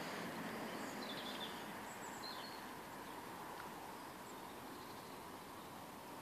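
Quiet outdoor background noise with a few short, faint bird chirps in the first couple of seconds.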